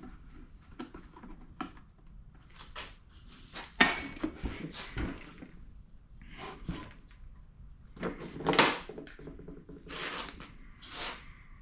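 Hands and tools working on a pancake air compressor's casing: irregular clicks, scrapes and clatters of parts being handled, with two sharper knocks about four and eight and a half seconds in.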